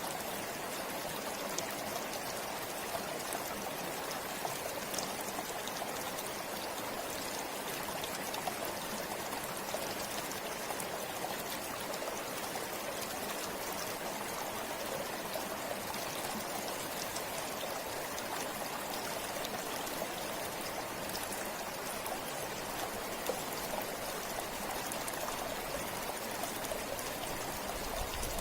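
River water flowing steadily, a constant rushing with small splashes and trickles over it.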